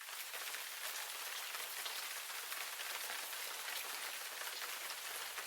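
Steady rain falling: an even hiss of many small drops.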